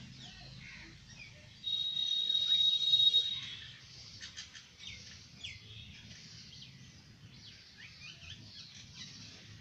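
Small birds chirping, with many short rising and falling high calls. A loud, high, buzzy trill lasts nearly two seconds near the start.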